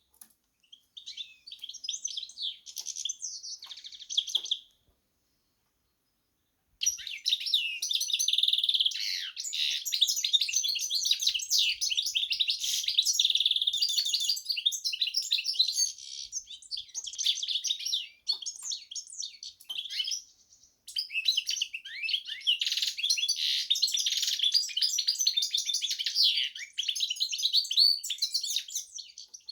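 Carduelis finch × canary hybrid singing: long phrases of fast, twittering song, broken by a silence of about two seconds a few seconds in and a short pause about two-thirds through.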